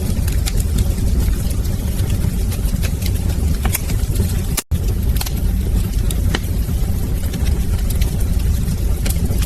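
Wood fire crackling in a fireplace: a steady low roar of flames with scattered sharp pops and crackles. The sound cuts out for an instant about halfway through.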